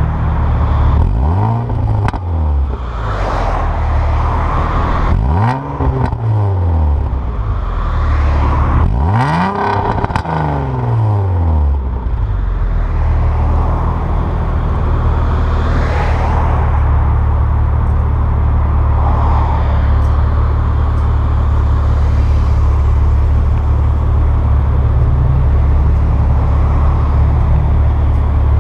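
2002 Nissan Maxima's 3.5 L VQ35DE V6 through equal-length headers, stock catalytic converter and a straight pipe with no resonator, giving a raspy note. It is revved three times, each blip higher than the last (to about 1,000, 2,000 and 3,000 rpm), then settles back to a steady idle.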